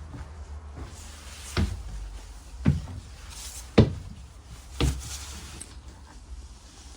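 Steady low rumble of a bus, with four sharp knocks or rattles about a second apart.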